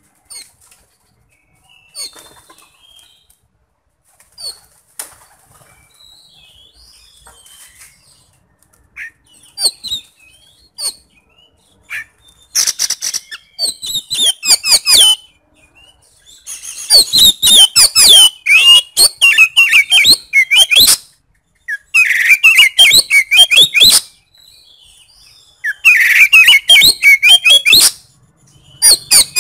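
Oriental magpie-robin (kacer) singing. It starts with scattered soft notes, then about twelve seconds in breaks into loud, rapid phrases of fast rising and falling notes, a few seconds each with short pauses between. The song is full of harsh, coarse notes.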